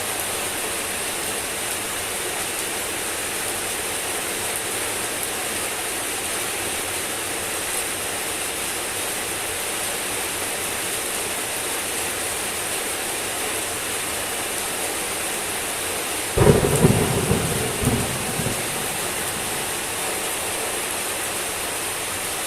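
Steady, even rainfall. About three-quarters of the way through, a sudden loud thunderclap breaks in and rumbles away in a few rolls over about two seconds.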